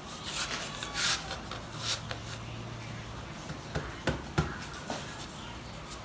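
Scraping and rubbing as a stone-look ceramic tile is worked into place on a fireplace, three short scrapes in the first two seconds, then a few sharp knocks a little past the middle.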